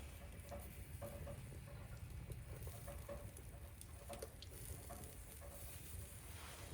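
Light rain pattering, with scattered small irregular ticks and clicks.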